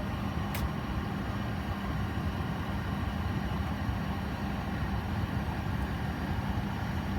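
Steady hum of a Boeing 737 cockpit on APU power, with the air-conditioning packs running. A single sharp switch click comes about half a second in, during the master dim and annunciator-light test.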